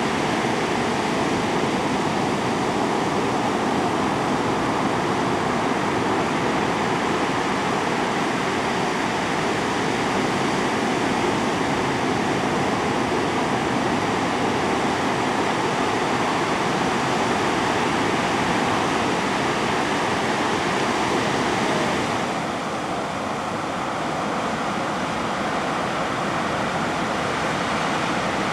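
Ocean surf breaking and washing along the beach, a steady continuous rush that drops a little in level about twenty-two seconds in.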